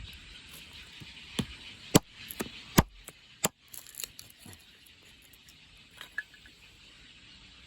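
A series of sharp, irregular knocks and clicks, the loudest about two seconds and three seconds in, then a few more spaced out toward the middle.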